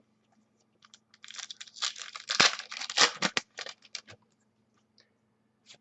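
A trading-card pack wrapper being torn open and crinkled: a dense run of rapid tearing and crinkling that starts about a second in and lasts about three seconds, with a few light clicks of handling around it.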